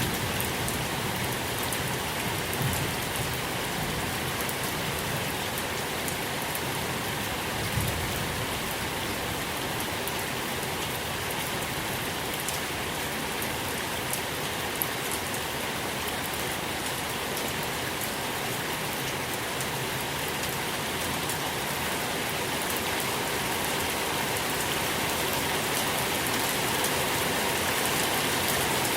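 Steady rain falling on a surface: an even hiss with scattered drop ticks. A low rumble fades out in the first second, and another brief one comes about eight seconds in.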